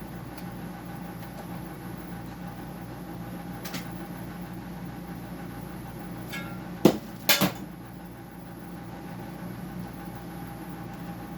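Steady hum of a running dehumidifier's compressor and fan, with a few knocks of parts being handled during the teardown. The two loudest knocks come close together about seven seconds in.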